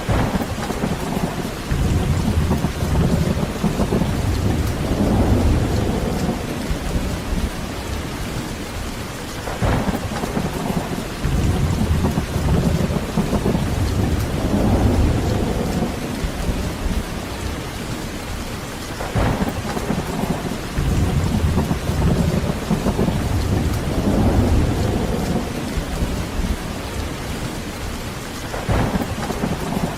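Heavy rain falling steadily with rolling thunder. Low rumbles swell and fade three times, each opening with a short sharp crack.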